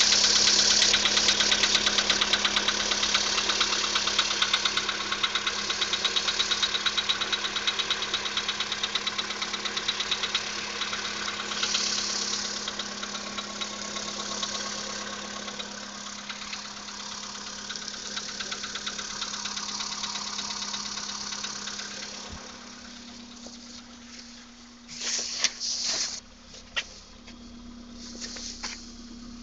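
Cold engine idling with a fast, rapid knock after its pistons were replaced. The knock is loudest at first and grows quieter over the first twenty seconds or so. A few short, louder bangs come near the end.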